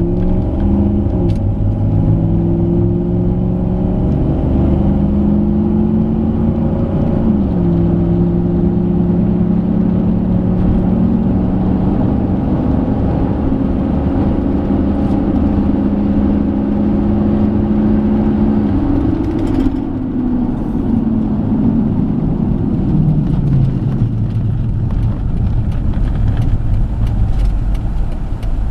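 A 2008 Jeep Commander's 5.7 L Hemi V8 running under way at highway speed with road rumble. The engine note climbs, drops sharply about seven seconds in, holds steady, then falls away over several seconds later on. Its 545RFE automatic is stuck in fourth gear and will not shift into fifth.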